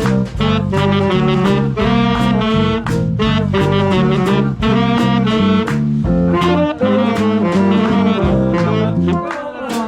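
Swing jazz band playing a tune, horns with saxophones to the fore over a steady drum beat; the band tails off just before the end.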